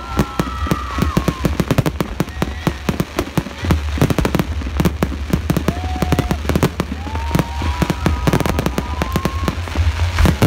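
Fireworks display: aerial shells bursting in a rapid, continuous barrage of bangs and crackles. A few long high-pitched tones rise and hold over the bangs, once near the start and again about seven to nine seconds in.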